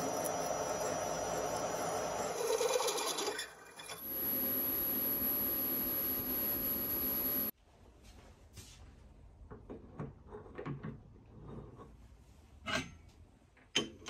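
A machine tool runs steadily, with a brief dip a few seconds in, then stops abruptly about halfway. After that come scattered light clicks and knocks.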